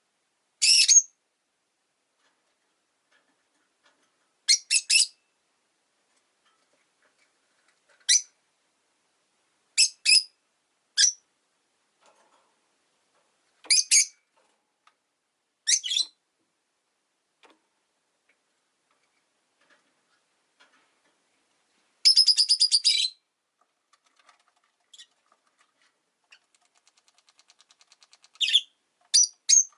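Rosy-faced lovebirds giving short, sharp, high-pitched chirps every couple of seconds, with one longer rapid chatter lasting about a second around two-thirds of the way through.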